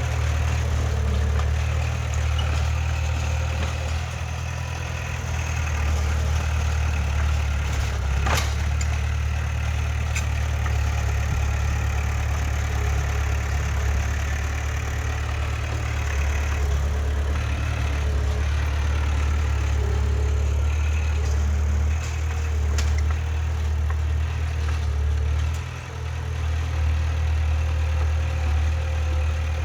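Heavy diesel engine of earthmoving machinery (bulldozer or dump truck) running with a steady low drone. A single sharp knock is heard about eight seconds in, and there is a brief dip in level near the end.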